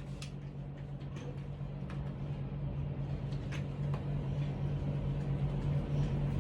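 A steady low hum that slowly grows louder, with scattered faint clicks and small knocks.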